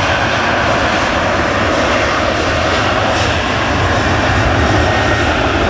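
Airliner jet engines running with a steady, dense roar, with a low, uneven rumble of strong wind on the microphone.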